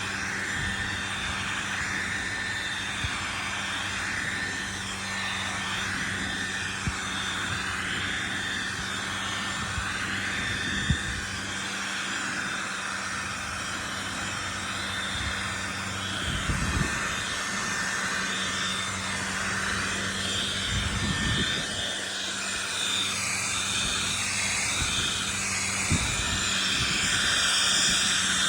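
Hand-held hair dryer running steadily, blowing air onto a Chihuahua's coat: a continuous rush of air over a steady motor hum, the hiss wavering as the airflow moves, with a few brief low bumps.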